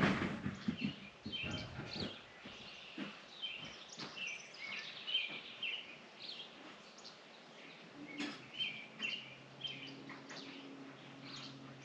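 Birds chirping and calling over one another throughout, with a few sharp clicks near the start and about eight seconds in. A faint steady low hum comes in about eight seconds in.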